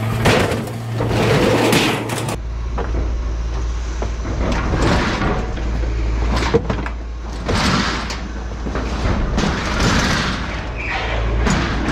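Scrap steel being dragged and thrown off a truck bed, with repeated irregular scraping and clanking over a steady low engine rumble.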